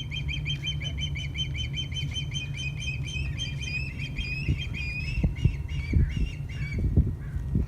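Osprey giving a quick run of high, repeated cheeping calls that slows and trails off near the end; the bird is taken for a young one nearly ready to fly. A steady low rumble sits underneath, with a few thumps in the second half.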